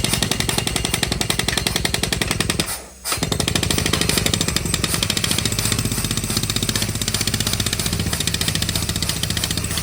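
Mini borewell drilling rig hammering rapidly as it drills, in a fast, even rhythm of strikes that stops for a moment about three seconds in and then starts again.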